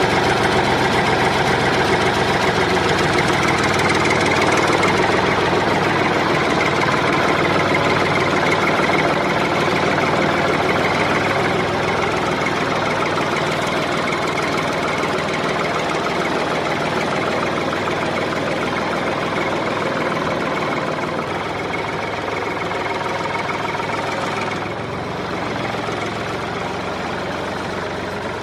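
Small geared electric motors of a DIY model tractor or excavator running steadily with a dense rattle, easing a little partway through and again near the end.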